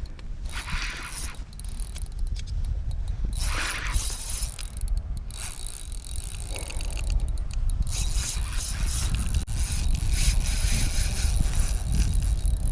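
Fishing reel clicking and ratcheting rapidly under load as a big fish is fought on the line, over a steady low rumble.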